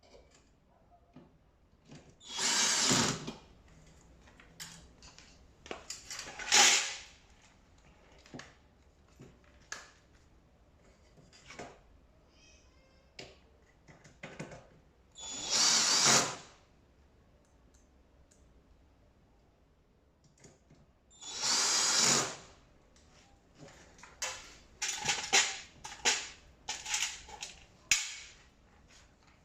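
Power drill-driver running in three spurts of about a second each, then a string of shorter bursts near the end, as screws are driven into the tumble dryer's parts during assembly; small clicks and knocks of handling between the runs.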